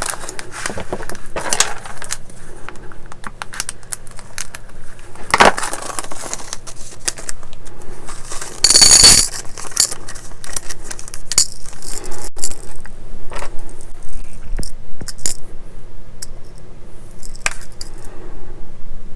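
Small metal pieces, tiny kit screws and hand tools, clinking and rattling as they are handled and picked through, with many light clicks and one louder metallic jingle about nine seconds in.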